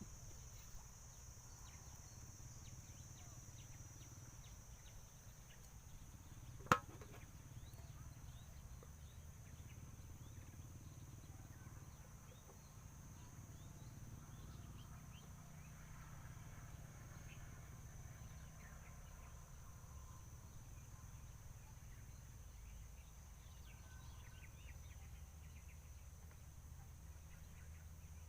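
Steady high insect drone over a low outdoor rumble, with one sharp click about seven seconds in.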